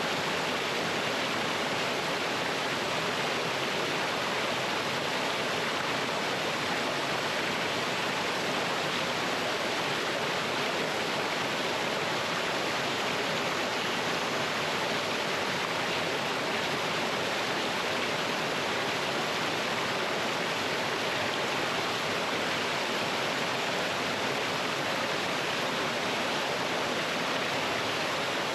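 Mountain stream water tumbling over rocks in a small waterfall, a steady unbroken rushing.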